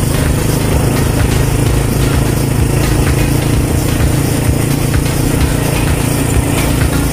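Small motorcycle engine of a tricycle (motorcycle with sidecar) running steadily at cruising speed, with wind and road noise, heard from inside the sidecar.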